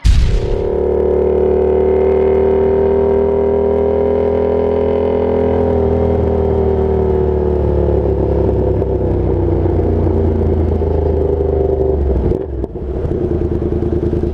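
Yamaha FZ-07 parallel-twin motorcycle engine running under way through its Danmoto XG-1 exhaust, its pitch slowly falling as the bike eases off. About twelve seconds in the sound briefly drops, then the engine carries on at a steady lower pitch.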